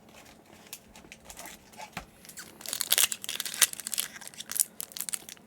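Plastic-foil trading card booster pack being torn open and crinkled. Faint rustling at first, then loud crackling from about two and a half seconds in.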